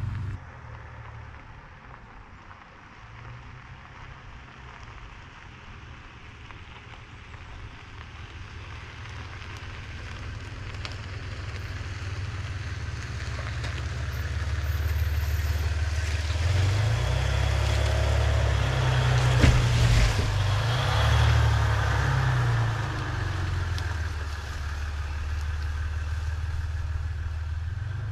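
A truck driving: steady engine and road rumble that grows louder about halfway through, then eases slightly.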